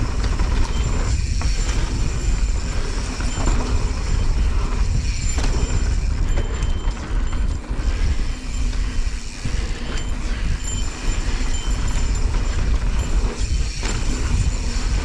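Mountain bike riding fast down a dirt trail: steady wind buffeting on the camera's microphone over the rush of knobby tyres on dirt, with scattered clicks and rattles from the bike.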